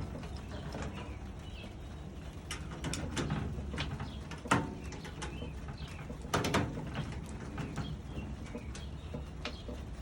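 Scattered metallic clicks and knocks, two of them louder near the middle, as screws are worked out of a microwave's sheet-metal casing with a screwdriver and security bits.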